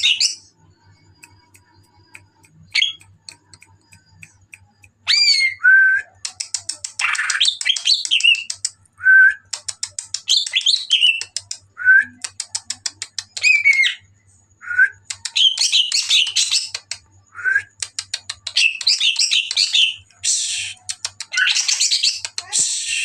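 Green leafbird (cucak ijo) singing in full, energetic song: loud gliding whistles mixed with fast rattling chatter phrases, repeated with short pauses. The song is sparse for the first few seconds and becomes near-continuous from about five seconds in.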